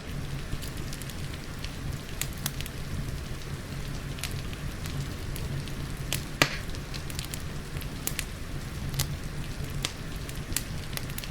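Wood fire crackling with scattered sharp pops, the loudest about six and a half seconds in, over a steady hiss of falling rain.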